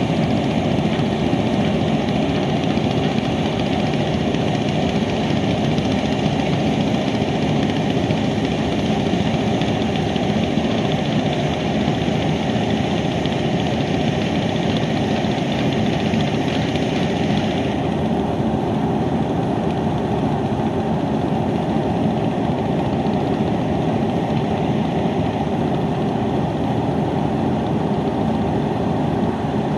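A river passenger launch's engine running steadily, a dense, even rumble. The higher hiss over it drops away suddenly about eighteen seconds in, while the rumble goes on.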